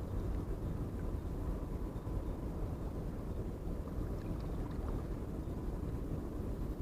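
Steady low rumble of harbour background noise, with a faint steady hum.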